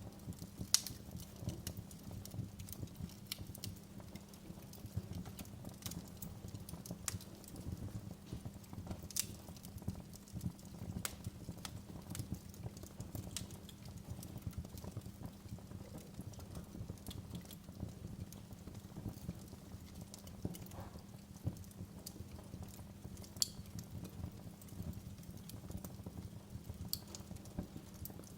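Wood fire in a fireplace crackling: irregular sharp pops and snaps over a steady low background noise, with a couple of louder pops standing out.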